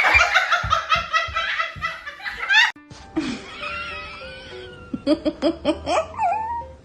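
A person laughing hard in a fast run of repeated bursts, cut off suddenly about three seconds in. After it comes music and scattered short sounds.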